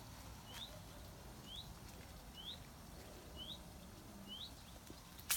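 A bird calling, repeating one short rising whistle about once a second, faintly, with a short sharp noise right at the end.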